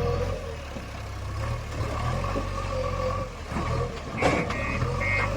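Diesel engine of a JCB 3DX backhoe loader running while it digs and loads mud, with a wavering whine over the engine note. A sharp clunk comes about four seconds in, then a reversing alarm starts beeping about twice a second.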